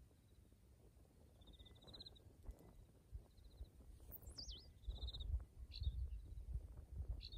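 Small birds calling: short trilled notes repeated every second or so, and one falling, wavering whistle about four seconds in. A low rumble comes up in the second half.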